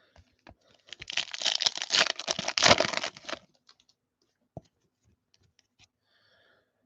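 Foil trading-card pack being torn open: a crinkly tearing for about two and a half seconds, then a few light clicks and rustles.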